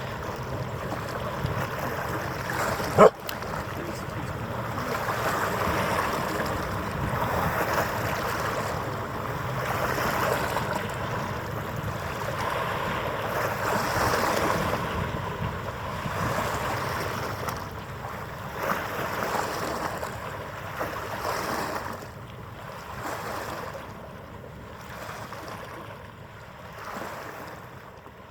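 Harbour water washing and lapping in swells that rise and fall every few seconds, with wind on the microphone, growing quieter near the end. A single sharp knock about three seconds in.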